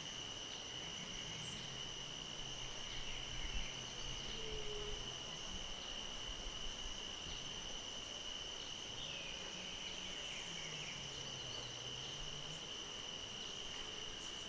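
Dusk insect chorus: a steady, unbroken high-pitched trill of crickets, with a few faint bird chirps and a low drone that slowly rises and falls underneath.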